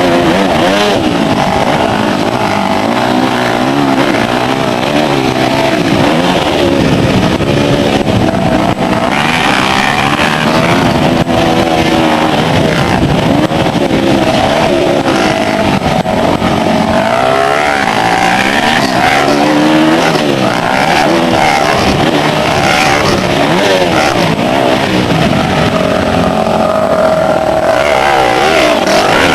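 Motocross bike engines racing, revving up and down over and over as the bikes accelerate, shift and back off around the track.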